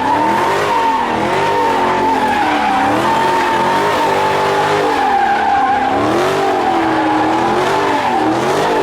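A car doing donuts or slides with its tyres squealing in one steady, high squeal, while the engine revs rise and fall over and over.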